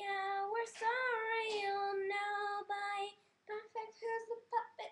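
A girl singing alone, holding long, steady notes with a small rise and fall about a second in; after a brief pause, about three and a half seconds in, she goes on in shorter, broken notes.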